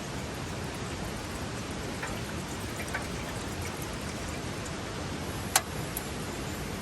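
Steady rushing of a mountain stream. A few faint clicks come around two and three seconds in, and one sharp click comes about five and a half seconds in.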